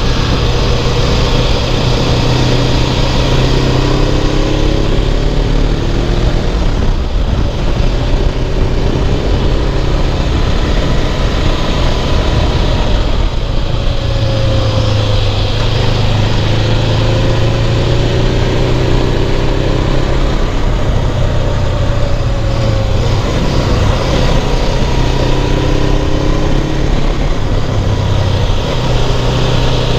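Suzuki GS500F's air-cooled parallel-twin engine running under way up a twisty hill road, its pitch easing off and climbing again several times through the corners, over a steady rushing noise.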